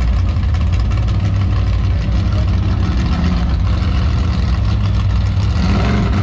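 Drag car engine idling with a loud, low rumble while the car creeps forward to stage at the start line. Near the end a higher engine note rises in and holds, as the revs come up before the launch.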